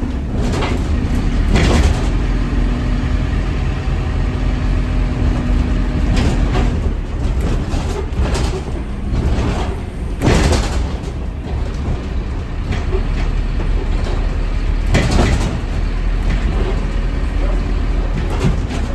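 Scania N230UD double-decker bus running, with a continuous low diesel rumble and a steady hum that fades out about seven seconds in. Several brief bursts of noise break through it.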